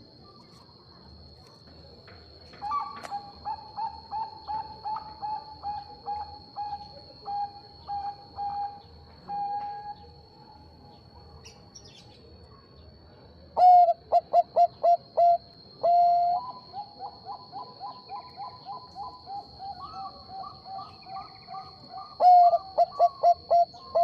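Zebra doves (Bangkok perkutut) cooing back and forth: a quieter bird gives a long run of rapid staccato coos, then a louder bird breaks in twice, midway and near the end, with a quick stutter of notes ending in a held coo, with quieter coos running on between.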